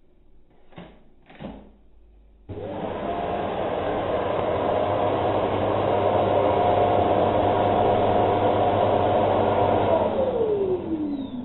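Motor of a Shark PowerDetect Clean & Empty vacuum switching on abruptly after two short noises, running steadily with a whine over a low hum, then spinning down near the end.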